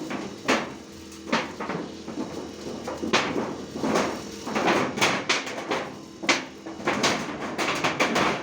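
A run of irregular knocks and scraping strokes, about one to two a second.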